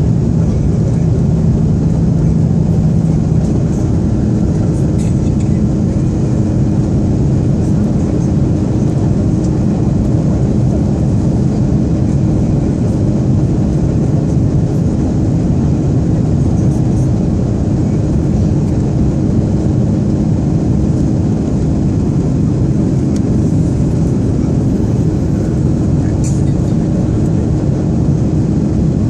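Jet airliner cabin noise during takeoff: a loud, steady engine drone and rush of air with a low hum, whose pitch pattern shifts a few seconds in.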